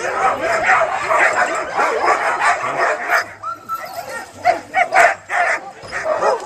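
Many sled dogs barking, yipping and whining at once, an overlapping chorus with one longer howl-like call about halfway through.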